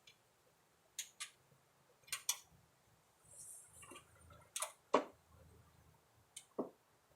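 Sharp clicks and clinks, mostly in close pairs, from hand work on a lawn mower deck's linkage while the deck is being hooked back on, with a short scraping rustle near the middle.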